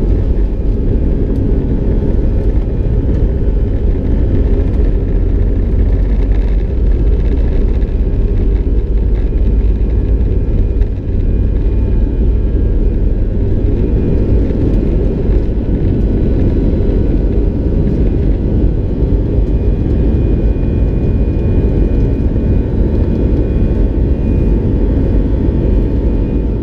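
Airbus A319 heard from inside the passenger cabin: a loud, steady rumble of engines and airflow, with faint steady whine tones above it.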